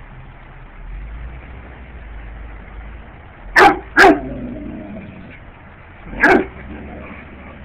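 Dog barking three times: two quick barks about three and a half seconds in, then a single bark about two seconds later.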